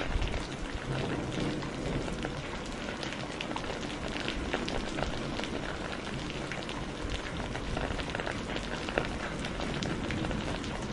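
Steady rain with a fireplace crackling, many short sharp crackles scattered through the hiss, and a brief low rumble right at the start.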